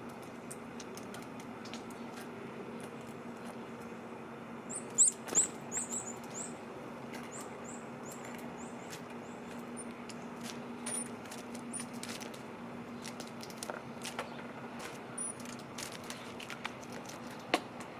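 Small birds chirping at a feeder, with a quick run of high chirps about five seconds in and scattered single chirps later, over many short clicks and taps from feeding at the feeder. A faint steady low hum runs underneath.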